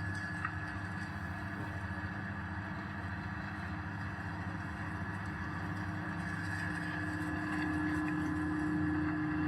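Electric spice grinding mill running steadily with a constant machine hum, getting a little louder near the end.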